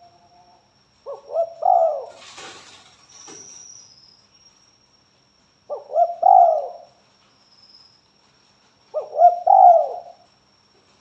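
Spotted dove (tekukur) cooing: three short phrases of a few notes each, about four seconds apart. A brief hissing noise follows the first phrase.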